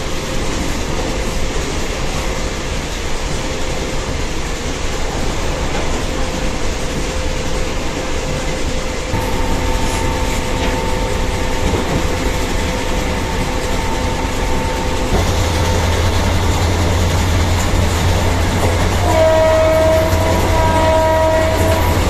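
Diesel multiple unit (DMU) train running at speed, a steady loud rushing rumble of the moving train. Near the end its horn sounds in two blasts.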